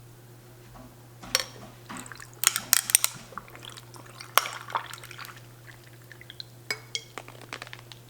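Glass and tableware being handled: a string of sharp clinks and taps, busiest from about one to five seconds in, a few ringing briefly, over a low steady hum.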